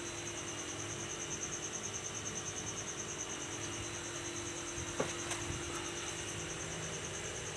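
Steady high insect trill, like a cricket, pulsing rapidly without a break, over a low steady hum. There is a single sharp click about five seconds in.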